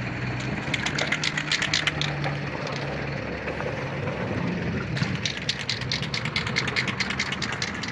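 A vehicle engine idling with a steady low hum at a street scene. Two stretches of quick, irregular clicking or crackling come over it, about a second in and again from about five seconds in.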